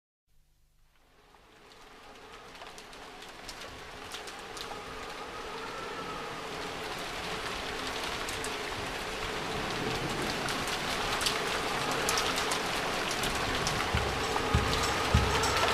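A rain-like hiss with fine patter, opening the song, fades in from silence and keeps growing louder, with a faint held tone underneath. About fourteen seconds in, a kick drum starts thumping.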